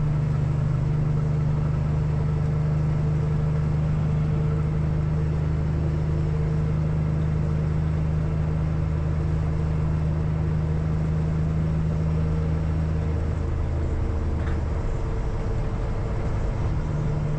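Peterbilt semi truck's diesel engine droning steadily, heard from inside the cab while driving; the drone's tone shifts near the end.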